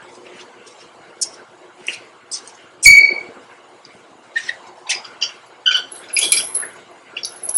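Metal parts being handled in a workshop: scattered light clinks and rattles, with one sharp, briefly ringing metal clink about three seconds in.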